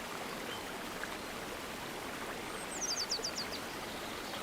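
River water running steadily. A bird calls once, a quick run of about seven short, high notes, each falling in pitch, about two and a half seconds in.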